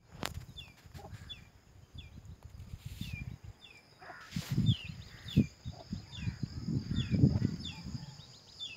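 A bird repeats a short, falling chirp a little more than once a second, over wind gusting against the microphone in low rumbling buffets, strongest around the middle and near the end.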